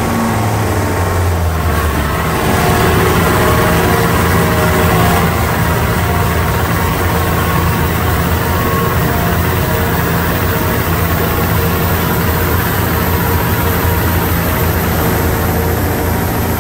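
Heavily tuned turbocharged Mitsubishi Lancer Evolution engine running steadily at a constant speed, getting a little louder about two seconds in.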